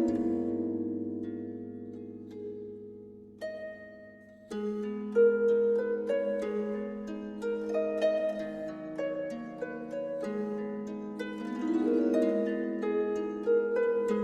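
Harp music: a plucked chord rings and fades away over about four seconds, a single note sounds, then a steady melody of plucked notes resumes.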